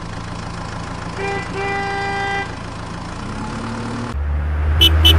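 Vehicle sound effect: an engine running steadily while a horn honks twice, a short toot and then a longer one. Near the end the engine gives way to a louder low rumble, with two sharp clicks.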